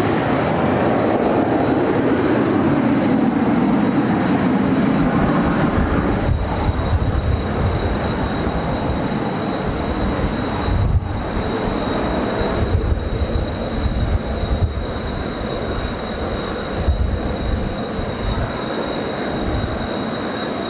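Jet noise from the Blue Impulse team's Kawasaki T-4 trainers passing overhead, loudest for the first six seconds and then fading. Strong wind buffets the microphone with gusty rumbling.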